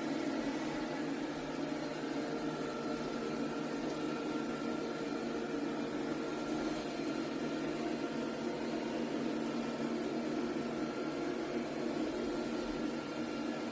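ECOVACS Deebot T50 Omni robot vacuum running, a steady motor whir with a constant hum.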